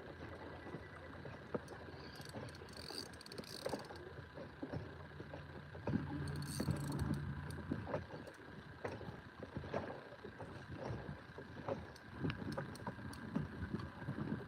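Water slapping around a small inflatable boat, with scattered small knocks and clicks from handling on board.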